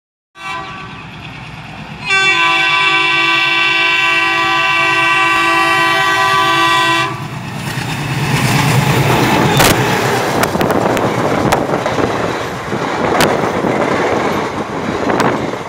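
Diesel locomotive sounding a long, steady multi-tone horn for about five seconds as it approaches. It then passes at speed: a heavy rumble of the locomotive going by, followed by the coaches rolling past with sharp clacks of wheels over rail joints.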